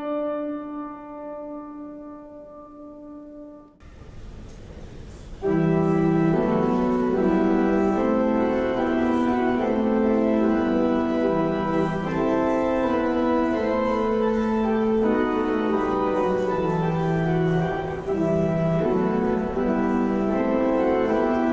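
A single struck note rings out and fades, then about five seconds in an organ begins playing sustained, slowly changing chords.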